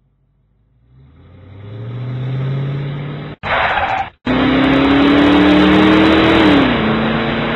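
Car engine sound effect: an engine revs up, is cut off abruptly twice, then runs loud with its pitch climbing steadily before it drops as if shifting gear.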